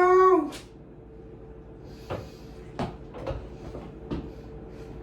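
A person's voice briefly at the start, then a handful of scattered light knocks and clicks, like things being handled, over a faint steady hum.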